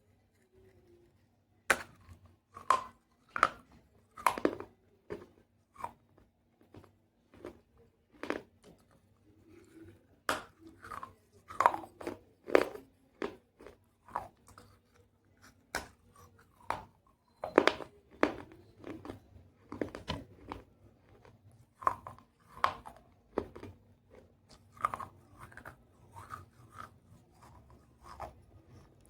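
Close-up crunching and chewing of hard, brittle pieces of baked clay pot: a string of sharp, irregular crunches, roughly one or two a second, starting about two seconds in.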